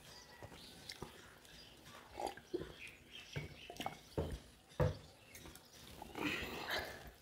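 Close-up eating sounds: chewing and lip smacking of rice and roti eaten by hand, with irregular wet mouth clicks.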